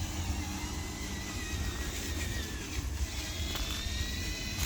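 Electric motor and gearing of a handmade RC dump truck whining, with a thin pitch that wavers and a higher whine that rises slightly in the last second or so, over a steady low rumble.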